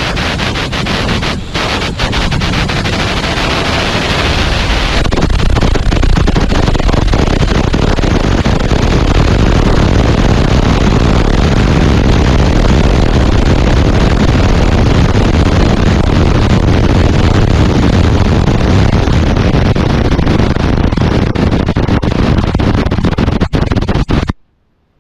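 Loud, dense rumbling noise of a rocket re-entering the atmosphere, heavy in the low end, with crackling in the first few seconds. It cuts off suddenly near the end.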